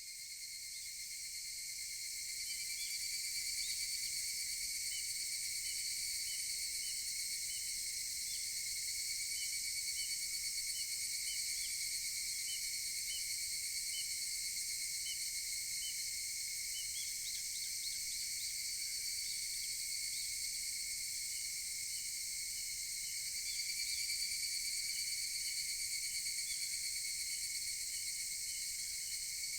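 Insect chorus with higurashi (evening cicadas) calling: a steady shrill drone with short chirps repeating about twice a second. It fades in over the first few seconds.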